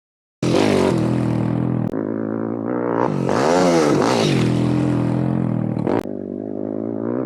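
YCF Bigy 190 pit bike's 190 cc single-cylinder four-stroke Daytona engine running under throttle, revving up and back down about three seconds in. The sound starts abruptly and breaks off sharply twice, as if cut together.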